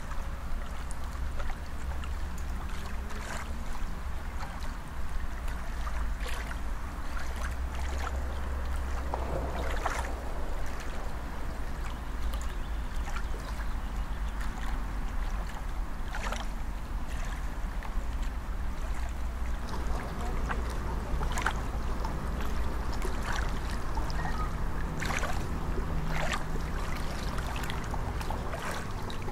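Open-water ambience: a steady low wind rumble with water lapping and a few soft splashes every few seconds.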